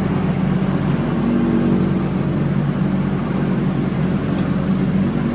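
John Deere X304 lawn tractor engine running steadily under mowing load, its pitch shifting slightly now and then.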